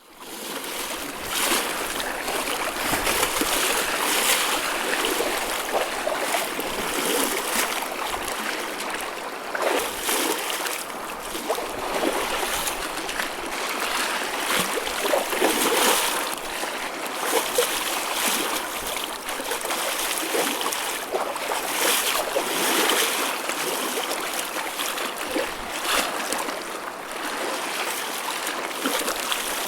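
Choppy ocean waves splashing and washing, a continuous rush of water that swells and eases every second or two.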